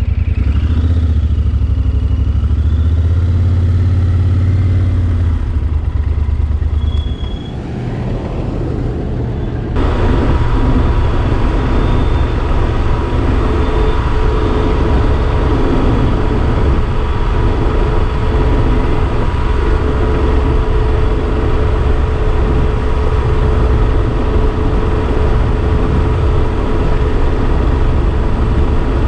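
Yamaha Super Ténéré XT1200 parallel-twin motorcycle running at road speed under heavy wind rumble. The sound changes abruptly about ten seconds in, then runs on steadily.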